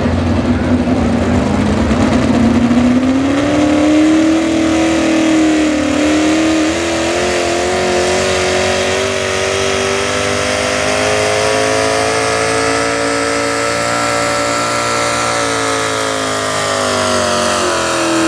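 Super stock two-wheel-drive pulling truck's engine held at high revs under load while pulling the sled. Its pitch climbs quickly at first, keeps creeping higher through most of the run, and drops near the end as the truck comes off the throttle.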